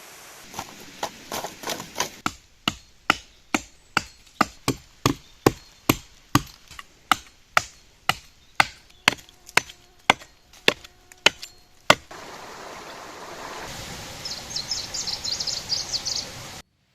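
Quick, regular chopping with a blade on wood, about three strokes a second, for some twelve seconds. It gives way to a steady hiss with a brief high chattering near the end, then cuts off suddenly.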